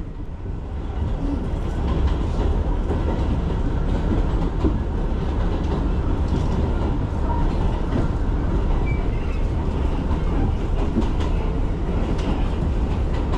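New York City subway train running on the rails: a steady low rumble with clickety-clack from the wheels over rail joints. It grows louder over the first couple of seconds, then holds steady.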